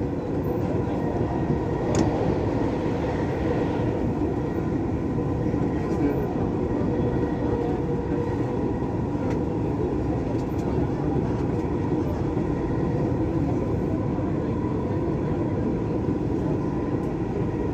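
Dubai Metro train running at speed, a steady rumble of wheels and motors heard from inside the carriage, with a faint steady whine. A single sharp click about two seconds in.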